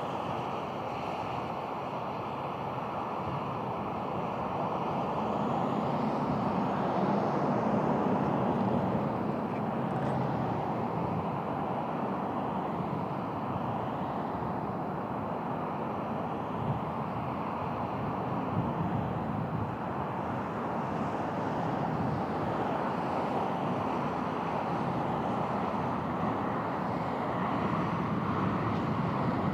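Distant aircraft engine noise, a steady even rush, mixed with wind buffeting the microphone.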